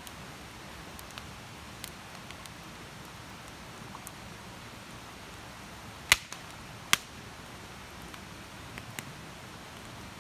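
Wood campfire burning with a steady hiss and scattered small crackles, and two loud pops a little past halfway.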